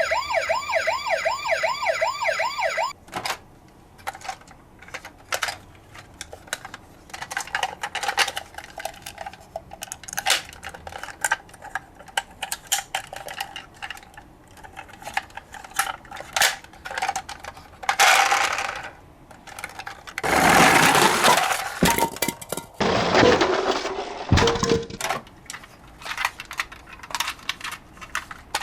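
A fast warbling siren for about the first three seconds, then die-cast toy cars clicking and clattering against each other as they are handled and gathered into a box, with a few louder rattling stretches near the end.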